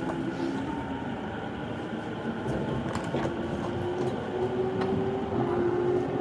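Inside a running JR Chūō-Sōbu Line electric commuter train: steady rumble of the car on the rails, with a faint motor whine rising slowly in pitch as the train picks up speed.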